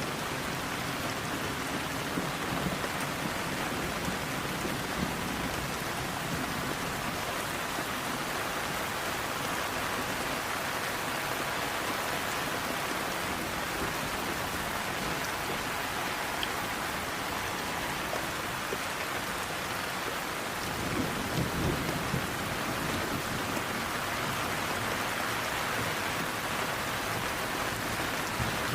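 Steady rain falling, an even hiss of drops, with a brief low rumble swelling about three quarters of the way through.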